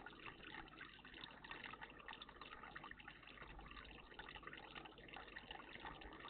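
Faint, steady trickling and splashing of running water in a garden bird bath.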